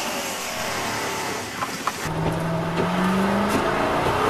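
Heard from inside a car, a steady hiss of wet road and rain. About two seconds in, the car's engine note comes up and climbs in pitch as the car accelerates.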